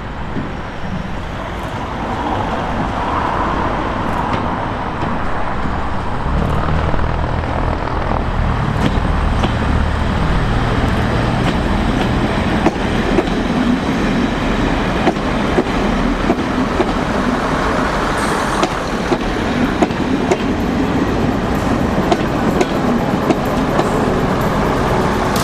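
A heritage train running on the line, its engine and running gear growing louder over the first few seconds, then holding steady, with sharp clicks through the second half.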